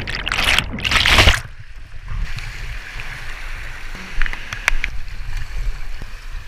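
Whitewater rushing on a flooded river rapid: two loud surges of water noise in the first second and a half, then a quieter steady rush of the river with a few small knocks.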